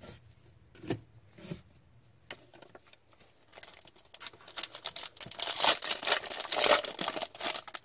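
Hockey trading cards being handled: a few light clicks and taps, then, from about halfway in, several seconds of dense rustling and crinkling as cards and wrapper are worked through.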